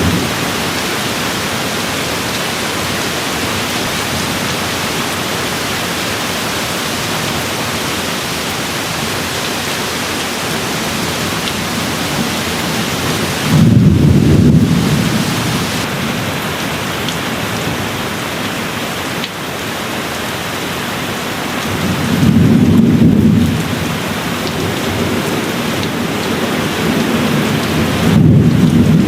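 Steady rain falling, with distant thunder rolling low three times: about halfway through, again about three quarters of the way in, and once more near the end.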